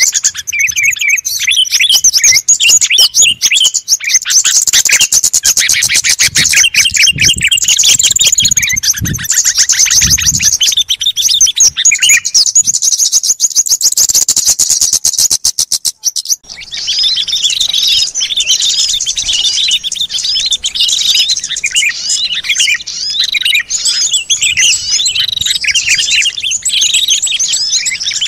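Dense chorus of many small birds chirping and twittering over one another, a bird-lure mix of small songbirds. About sixteen seconds in it breaks off for a moment and a different busy chorus of chirps takes over.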